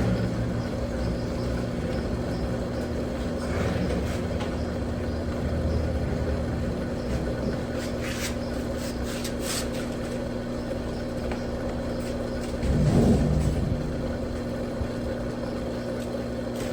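Electrolux Turbo Capacidade Premium 15 kg top-load washing machine running mid-cycle with a steady motor hum, with a brief louder swell about 13 seconds in.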